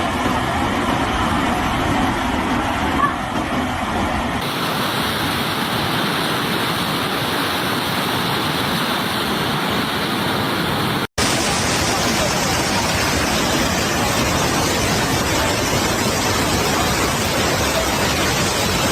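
Steady rushing water noise that changes abruptly twice, about four and about eleven seconds in, with a split-second gap at the second change.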